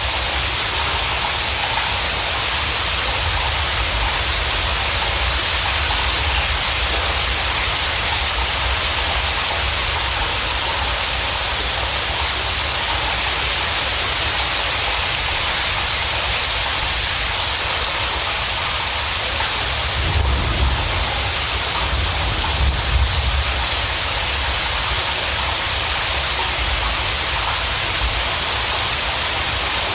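Steady heavy rain falling on a surface, an even hiss with no break. Two brief low rumbles come through about two-thirds of the way in.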